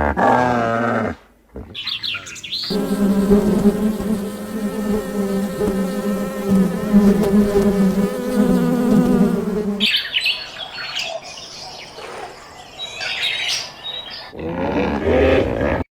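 Insect buzzing, a steady droning hum held for about seven seconds, followed by scattered bird chirps. A short animal call is heard near the start and another near the end.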